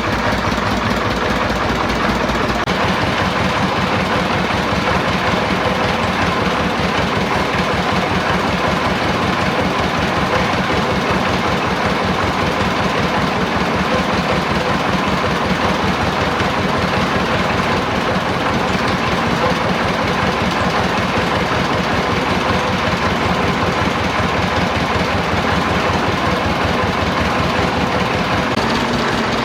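A freshly rebuilt engine running steadily after internal repair, with a fast, even run of firing pulses; its note shifts slightly about two and a half seconds in.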